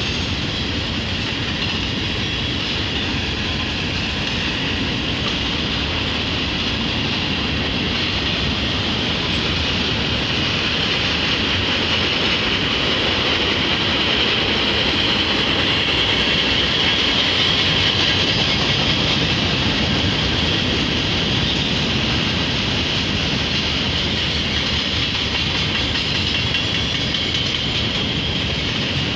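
Freight train rolling past, a string of tank cars, covered hoppers and gondolas: a steady rumble and clatter of steel wheels on the rails, growing a little louder about midway.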